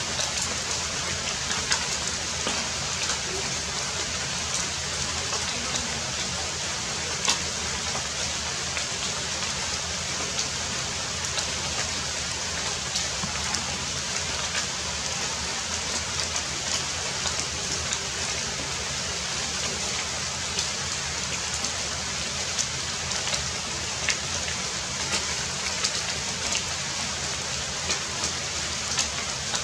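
Heavy rain falling steadily, a continuous hiss with scattered sharp drop impacts.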